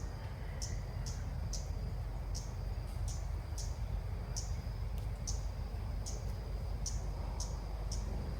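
A small bird giving short, high chirps, repeated about twice a second, over a faint steady high whine and low background rumble.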